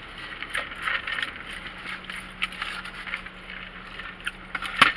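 Rustling and crackling handling noises, a scatter of small crinkles and clicks with one sharp crackle near the end.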